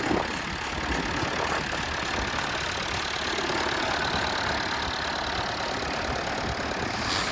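International Harvester A414 tractor engine running steadily.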